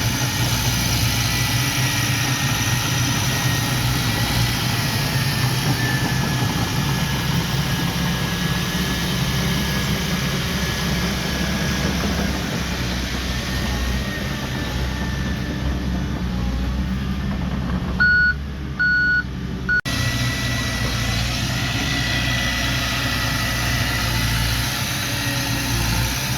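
Diesel engine of earthmoving machinery running steadily, with a thin high whine over it. Near the end the engine sound cuts out abruptly for a couple of seconds while a reversing alarm beeps three times, then the engine sound resumes.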